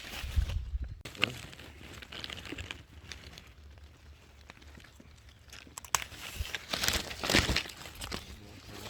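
Irregular rustling and crinkling of strawberry plants being handled during picking, with scattered small clicks and louder bursts just after the start and about seven seconds in.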